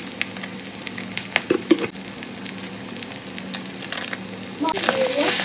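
Food sizzling and crackling in a hot frying pan: a steady hiss dotted with many small pops, with a few sharper clicks about one and a half seconds in. The sizzle grows louder near the end.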